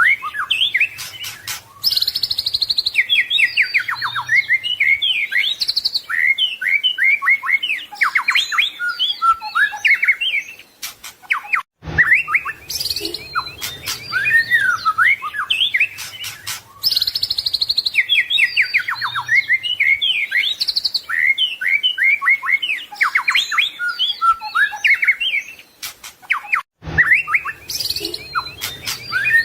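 A white-rumped shama (murai batu) sings a long, fast, varied song of whistles, trills and chattering phrases. The song breaks off briefly twice, and the same passage appears to repeat about every fifteen seconds.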